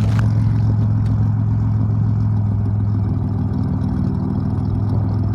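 Nissan 300ZX (Z31) V6 engine running steadily, a constant low hum with no change in revs.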